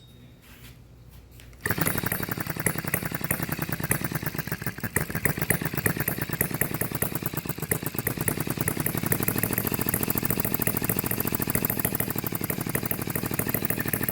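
A Stirlingkit HM-01 model hit-and-miss engine starts a little under two seconds in and then runs with a fast, even string of firing pops. Its throttle is set about half open.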